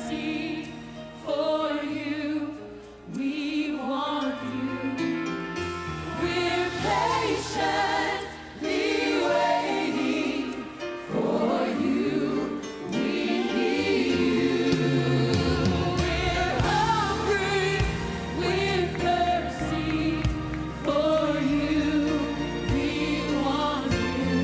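Gospel choir singing with instrumental accompaniment. Wavering sung notes ride over sustained low bass notes that change in steps.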